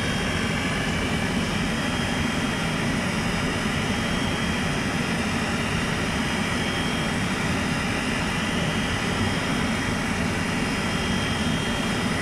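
Homemade LPG gas burner for a powder-coating curing oven, running steadily with a loud, even rushing noise and a faint high whine on top.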